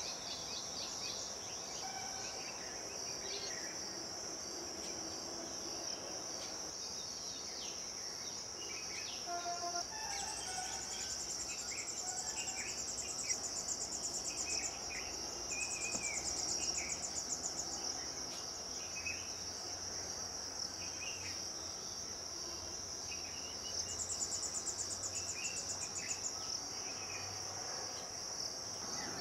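Steady high-pitched chorus of crickets, joined three times by a second, higher pulsing insect trill, with short bird calls scattered throughout.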